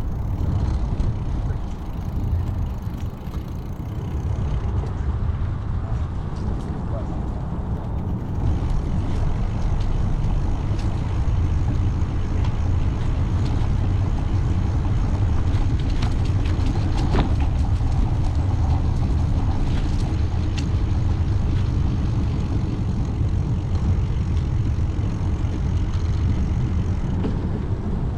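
Steady low rumble of wind and road noise from a moving bicycle ride, with faint scattered clicks around the middle.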